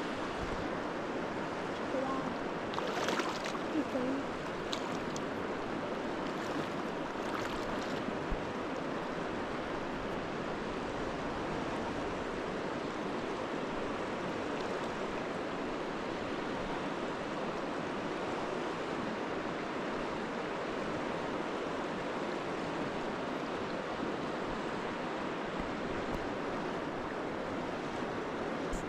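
River water rushing steadily, with a few faint clicks in the first several seconds.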